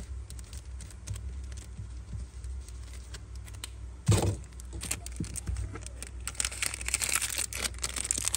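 Hands handling a Zippo lighter and its wrapping: scattered small clicks and rustles, one sharp knock about four seconds in, then a busy stretch of rustling and clicking near the end.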